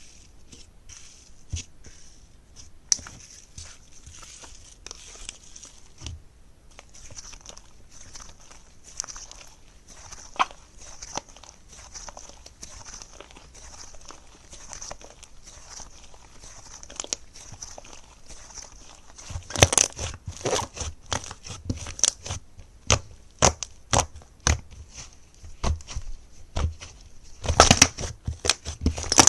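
Slime being squeezed and poked by hand, giving a stream of small wet pops and clicks that gets denser and louder about two-thirds of the way through.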